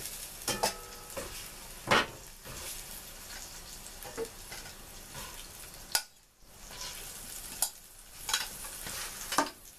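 Pear halves sizzling in hot oil in a cast-iron Dutch oven, a steady frying hiss. Several sharp metal clinks of a fork against the pot and a steel bowl as the seared pears are lifted out.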